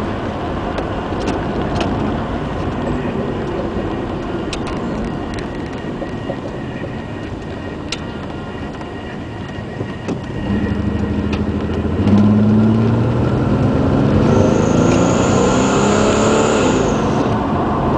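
Holden VP Commodore heard from inside the cabin: a steady road drone, then from about ten seconds in the engine is pushed hard, its revs climbing in steps as the freshly serviced automatic transmission upshifts. The shifts grab firmly instead of slipping in. A high thin whine sits over it for a few seconds near the end.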